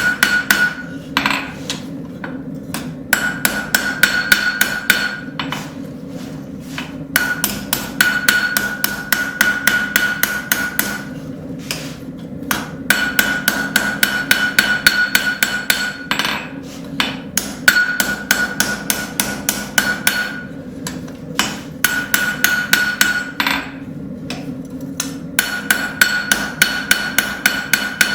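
Rounding hammer striking a hot railroad spike on an anvil in quick runs of several blows a second, with short pauses between runs, as the blade's bevel is forged in. Each run brings a steady high ring from the anvil, over a steady low hum.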